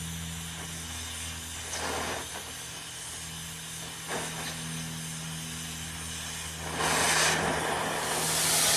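Oxy-acetylene cutting torch with a number 2 tip hissing steadily while cutting steel plate, over a steady low hum. Two short louder rushes come about two and four seconds in, and near the end the torch's hiss swells into a much louder rush that holds.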